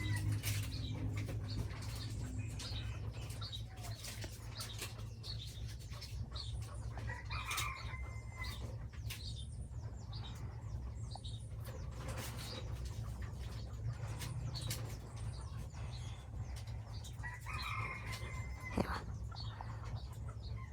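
Chickens clucking and calling now and then, with many small clicks and knocks and a steady low hum underneath.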